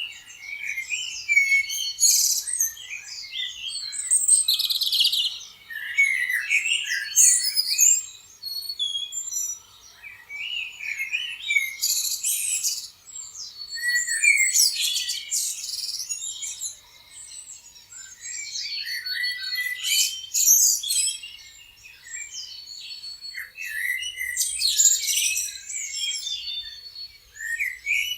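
Several songbirds singing and chirping at once, a dense chorus of high trills, quick chirps and whistled slides in pitch, swelling and easing every few seconds.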